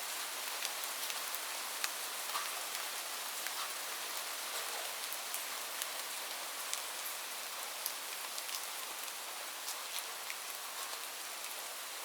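Steady rain falling, an even hiss with many individual drops ticking sharply and irregularly on a hard surface; no thunder.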